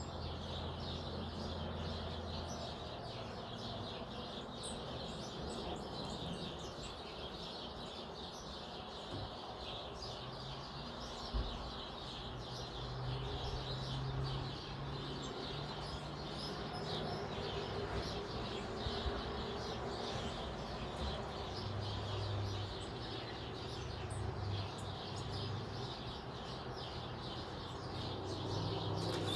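Wild birds chirping and calling repeatedly over a low, intermittent background hum, with one sharp tap about eleven seconds in.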